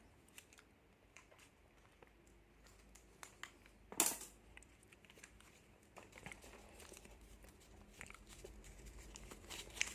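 Plastic snack packets crinkling and rustling as they are handled and opened, with scattered faint crackles and one louder crinkle about four seconds in.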